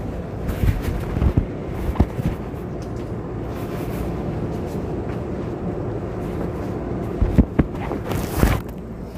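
Keisei 3500 series electric train standing at a platform, its onboard equipment giving a steady hum and rumble, with a few sharp thumps around seven to eight and a half seconds in.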